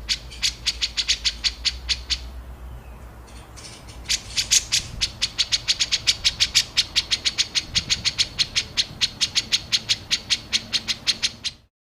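A songbird's rapid series of sharp, harsh repeated notes, about seven a second: the rough 'tembakan' call. It stops about two seconds in, starts again about four seconds in, and breaks off suddenly near the end.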